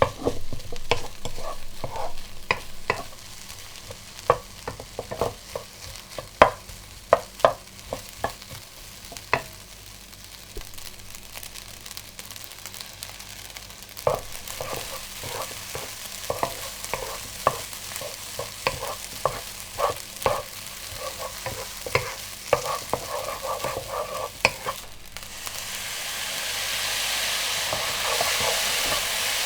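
Food frying in oil in a pan, stirred and tossed with a metal utensil that clicks and scrapes against the pan over a steady sizzle. The sizzle grows louder near the end.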